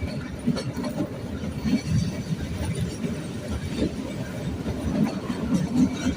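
Narrow-gauge Kalka–Shimla toy train carriage running along the line: a steady low rumble with irregular knocks and clatter of the wheels and coach.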